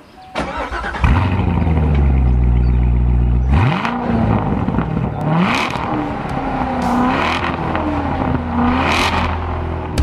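Car engine idling, then revved several times, its pitch rising and falling with each blip.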